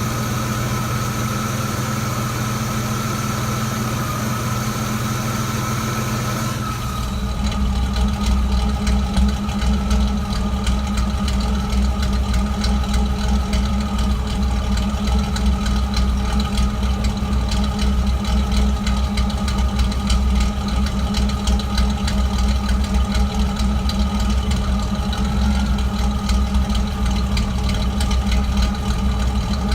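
Car engine idling with a misfire that the owner is trying to diagnose; disconnecting and reconnecting the MAF sensor made no difference to it. About 7 seconds in the sound becomes deeper and more uneven, pulsing irregularly.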